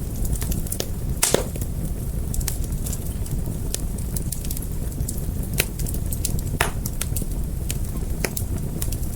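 Wood fire crackling, with scattered sharp pops over a steady low rumble; the loudest pop comes about a second in.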